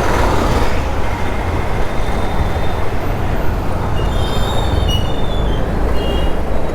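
Ride noise from a Honda Activa scooter in city traffic: steady wind rumble on the microphone and road noise. About four seconds in, a brief high-pitched squeal comes and goes over the next two seconds.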